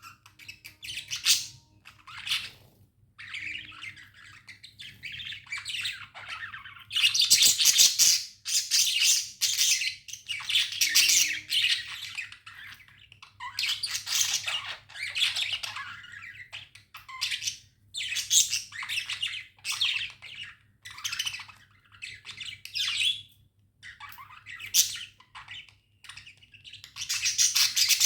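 Pet budgerigars chirping and chattering continuously, a dense run of quick chirps and harsh squawky calls with brief gaps, over a faint steady low hum.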